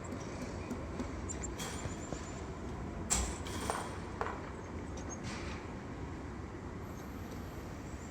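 Steady low outdoor rumble with a few sharp clicks and knocks scattered through it, the loudest about three seconds in.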